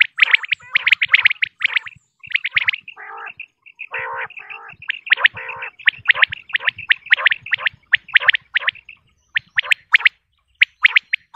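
Female common quail calling: rapid series of short, sharp notes repeated over and over, with a few lower, rasping notes partway through.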